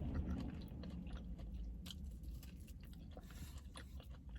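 A person chewing and biting food close to the microphone, with many small wet, crunchy clicks, over a low steady hum.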